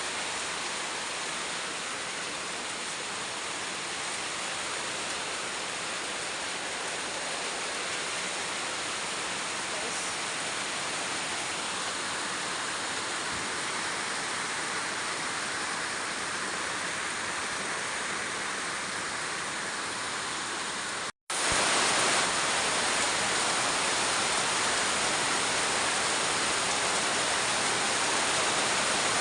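Heavy rain pouring down, a dense, steady hiss. About twenty seconds in it cuts out for an instant and comes back louder.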